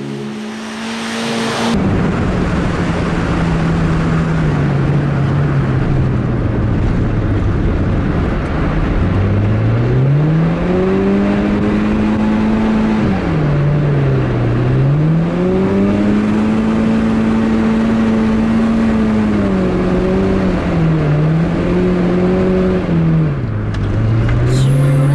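Subaru Impreza's flat-four engine heard from inside the cabin at speed, its revs climbing slowly and then dipping and rising again several times as the throttle is lifted and reapplied, over a steady rushing noise. Music plays briefly at the very start.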